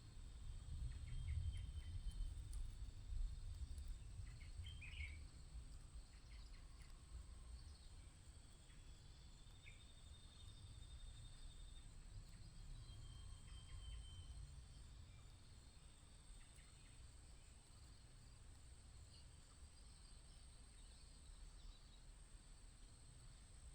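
Faint outdoor ambience: a steady high insect drone with low wind rumble, and a few short bird chirps scattered through it.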